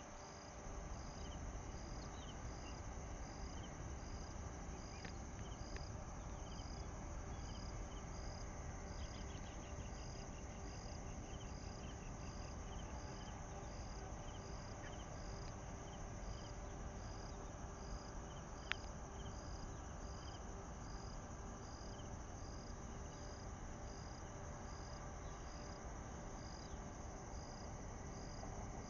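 Insects chirping outdoors: a high chirp repeating evenly a little more than once a second, with fainter chirps and a brief rapid trill, over a low steady hum. A single sharp click about two-thirds of the way through.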